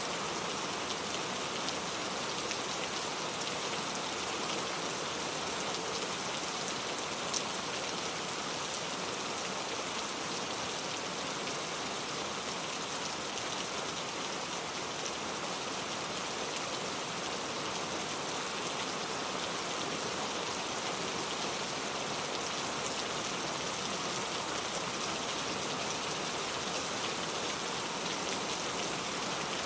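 Steady rain falling, an even hiss with fine drop patter and a single slightly louder drop about seven seconds in.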